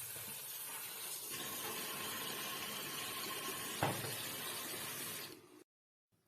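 Water running steadily from a kitchen tap. Its sound changes about a second in, there is a single knock a little before four seconds, and it cuts off suddenly shortly before the end.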